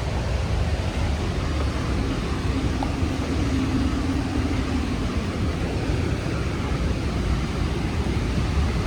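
Rhine Falls roaring: a steady rush of falling water, heaviest in the low end. A faint low hum rises over it from about two to five seconds in.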